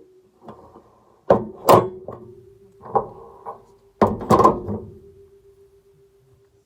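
A handful of sharp knocks and thuds, the loudest pairs about a second and a half in and about four seconds in, over a faint steady tone.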